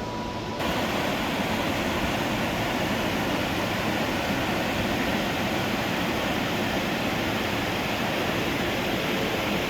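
Steady rushing noise, even and unbroken, starting abruptly about half a second in.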